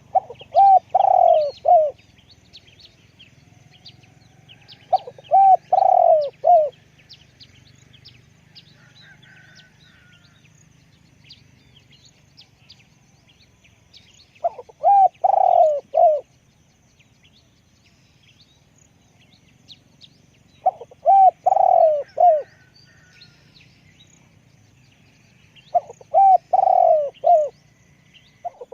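Spotted dove cooing: five phrases of four or five notes each, a few seconds apart, with small birds chirping faintly behind.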